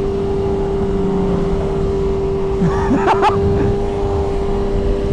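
Sport motorcycle engine running at a steady cruising speed, one even tone over a continuous low rush of wind and road noise. A short voice sound comes about three seconds in.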